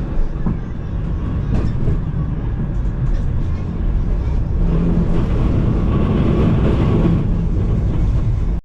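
Gothenburg tram running along its rails: a steady low rumble with wheel and track noise, swelling louder about five seconds in.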